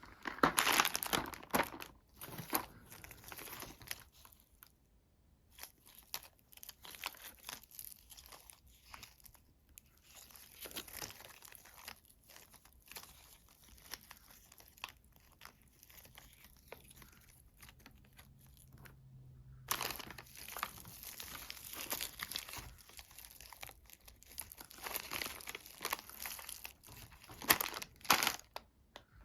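Candy wrapper being crinkled and torn, with close crackling handled at the microphone. The crackling is dense at first, thins to scattered crackles through the middle, and picks up again over the last third.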